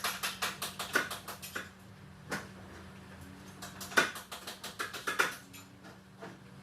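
Quick runs of sharp clicks and knocks in two spells about three seconds apart, over a steady low hum.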